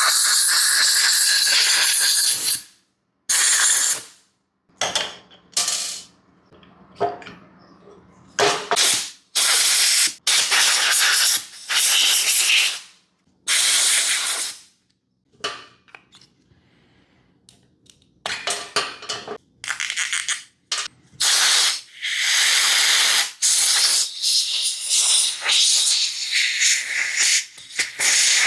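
Spray hissing in repeated short blasts, some a fraction of a second and some up to about three seconds, each starting and stopping sharply.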